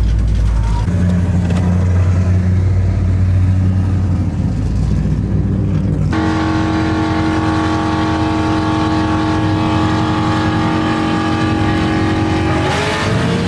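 Loud engine and exhaust of a street-race car rumbling at low revs. About six seconds in it changes abruptly to an engine held at a steady high-pitched drone, whose pitch shifts near the end.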